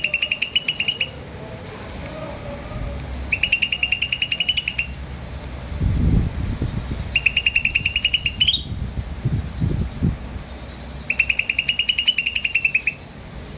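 A bird repeating a rapid, even trill at one high pitch, four times. Each trill is about a second and a half of fast pulses, and they come about four seconds apart. Low rumbles and thuds fall between the middle calls.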